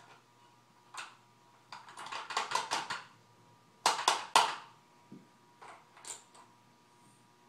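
Hard plastic toy garbage truck and its toy cans clicking and clattering as they are worked by hand. There is a quick rattling run of clicks about two seconds in and three louder clacks near four seconds.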